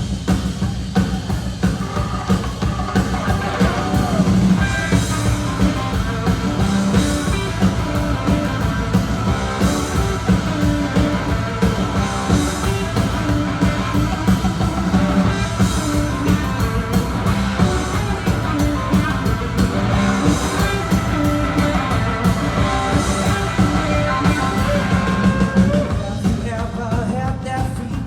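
Live rock band playing an instrumental passage: drum kit keeping a steady beat under held chords.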